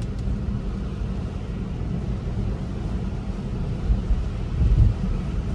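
Steady low road and tyre rumble inside the cabin of an electric Tesla Model 3 driving on a wet road, with a couple of louder low thumps about four and five seconds in.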